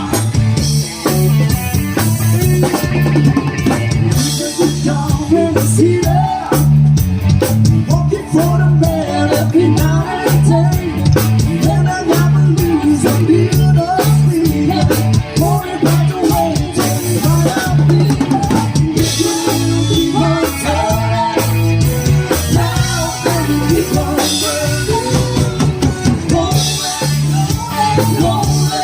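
Live band music in a pop-rock dance medley: a drum kit keeps a steady beat over a bass line, with melodic instrument parts on top.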